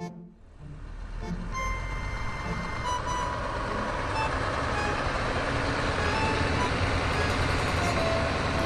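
A truck's engine running steadily, fading in over the first second, with a few short beeping tones over it.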